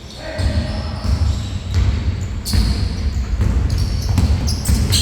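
Basketballs bouncing on an indoor court floor, with several sharp knocks and scuffs spread through the few seconds.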